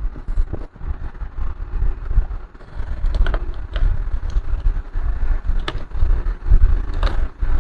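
Low, uneven rumbling of wind buffeting the microphone, with a few light clicks and taps of the dismantled laptop's parts being handled, four or five of them spread through the second half.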